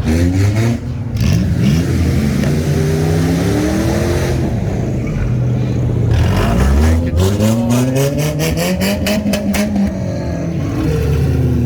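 Figure-8 race car engines revving, the pitch climbing and falling in several swells, with a run of sharp crackles partway through.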